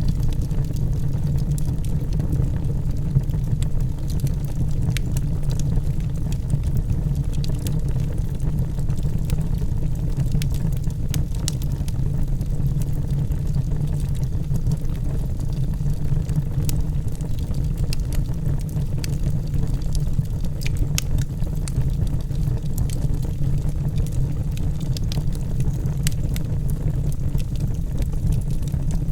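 Log fire burning in a fireplace: a steady low rumble of flames with many scattered sharp crackles and pops from the burning logs.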